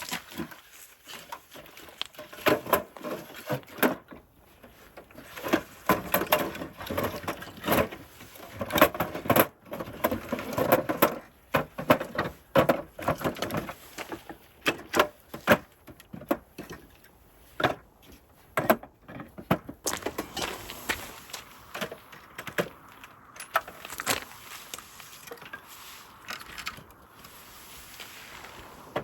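Irregular knocks, clicks and rattles of objects being handled and set down, in quick clusters with short pauses, quieter near the end.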